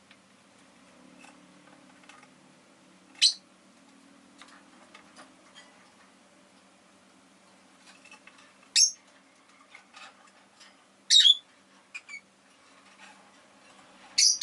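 Rosy-faced lovebird giving short, sharp, high-pitched chirps, a handful of them spaced a few seconds apart, the last two close together near the end, with faint small ticks in between.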